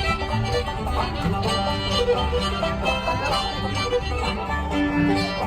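Bluegrass-style band music with fiddle and banjo playing a lively tune.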